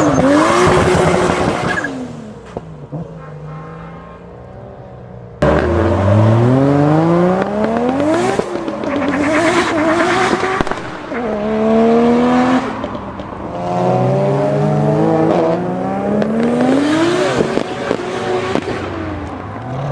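Sports car engines accelerating hard, their revs rising and dropping back at each gear change, several times over. A quieter passage gives way to a sudden loud start just after five seconds in, as another car launches.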